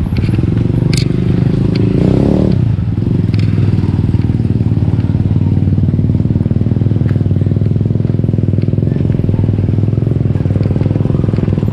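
Motorcycle engine running steadily while the bike is ridden, with a few short knocks and rattles.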